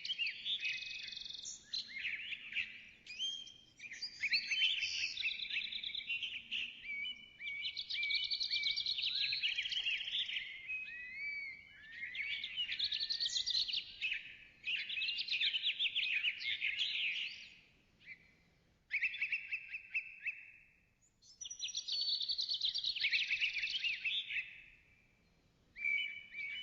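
A bird singing long runs of quick, varied chirps and whistled notes, broken by short pauses, with a steady held trill about two thirds of the way through.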